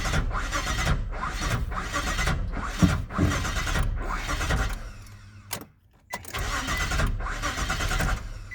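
2002 Nissan Frontier's engine cranking on the starter without catching, in two long attempts with a brief break about five and a half seconds in: a crank-no-start.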